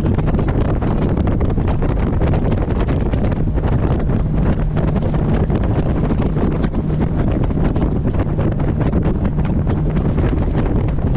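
Wind buffeting the microphone on a moving boat, a loud, fluttering rumble, with the boat's engine humming steadily underneath.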